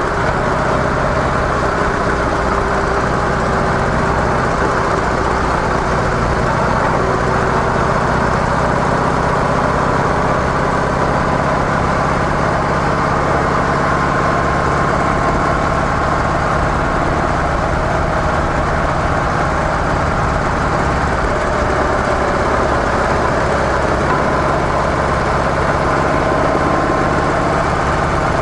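Harley-Davidson CVO Softail Deluxe's Twin Cam 110 V-twin engine running steadily through its stock mufflers, with no change in speed or load.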